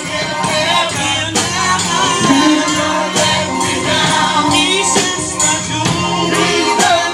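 Live gospel praise music: singing voices over a band, with steady beats of percussion such as a tambourine.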